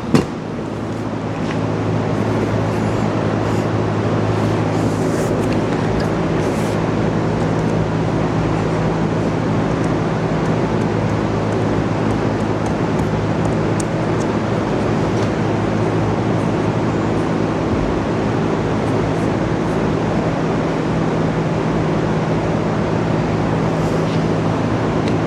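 A steady machine drone: an even rushing noise over a constant low hum, with a few light clicks at the start.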